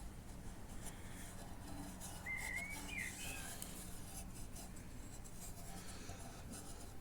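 A short whistle, about two seconds in, that rises and wavers for about a second. Behind it is a faint low steady hum and a few faint light clicks.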